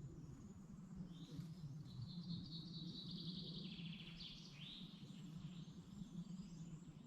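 Wild songbirds singing in a forest: a fast trill of rapidly repeated high notes about two seconds in, then a few short falling notes, over a steady low background rumble.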